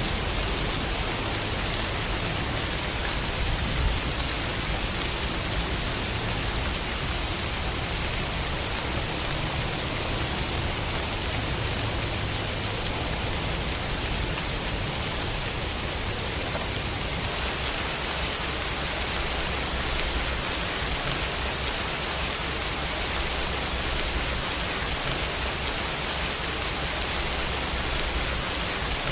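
Steady rain falling, a continuous even hiss with no separate drops or thunder standing out; its tone changes slightly a little past the middle.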